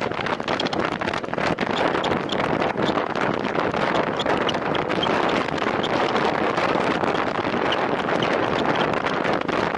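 Steady rush of wind on the microphone of a time-trial bicycle ridden at racing speed, with road noise and small rattles and ticks throughout.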